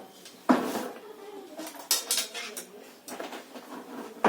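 Metal tools and parts clinking and knocking as nuts and components are fitted onto a top-load washing machine's gearbox mechanism: a sharp knock about half a second in, a few clinks around two seconds, and another near the end.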